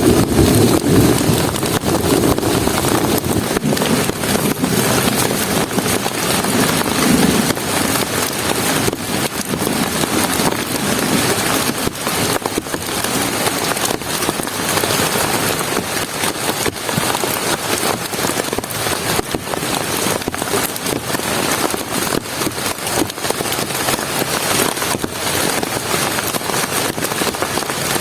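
Heavy rain falling steadily, with many single drops striking close by. A deeper rumble lies under the rain for the first several seconds, then fades.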